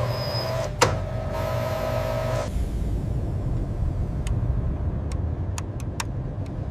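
Steady low mechanical rumble with a humming tone over it that stops about two and a half seconds in. There is a sharp click about a second in, and a run of short clicks in the last few seconds.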